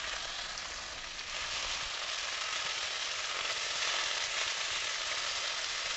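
Fiddlehead fern shoots sizzling steadily as they fry on a high flame in a non-stick pot, turned with tongs.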